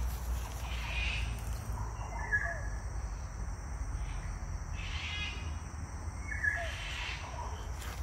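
Wild birds calling in short chirps every second or two, over a steady low rumble.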